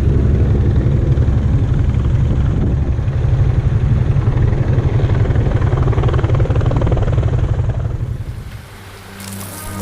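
Loud, steady low machine rumble with a fast even pulsing, fading away about eight seconds in. Near the end a hiss like rain, with music in it, comes in.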